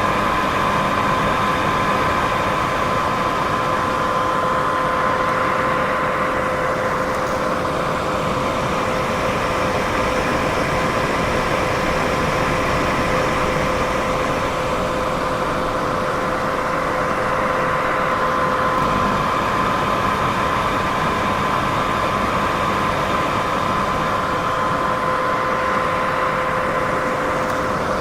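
Steady white-noise sleep sound: an even rushing hiss, strongest in the middle range, with a steady pitched hum under it and slow, gentle swells.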